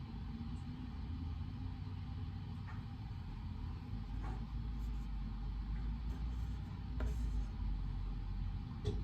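Reading-room background noise: a steady low rumble, with a few faint light clicks and taps scattered through it.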